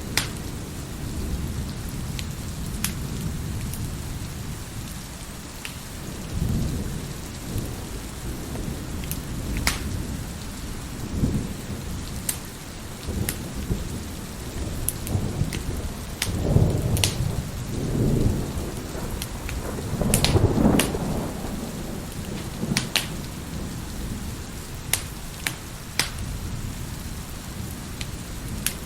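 Steady heavy rain with several rolls of thunder, the loudest near the middle, mixed with the sharp pops and crackles of a wood fire burning in a fireplace.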